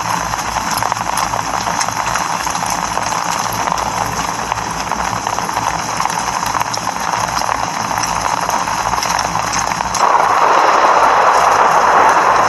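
Steady rain, a dense patter of drops that grows louder about ten seconds in.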